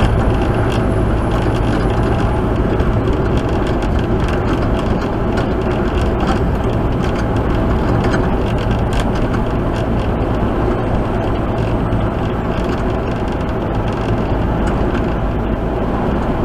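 Steady drone of a tractor-trailer on the move, heard from inside the cab: engine hum under a constant rush of road and tyre noise.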